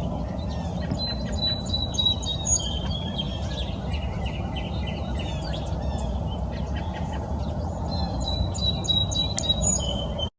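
Several birds chirping and calling, with one high whistled phrase that falls slightly and comes twice, over a steady low rumble.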